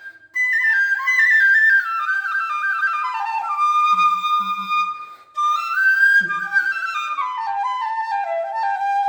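Bansuri (bamboo flute) playing a melody of stepwise falling phrases, with a short breath break about five seconds in, ending on a long held low note.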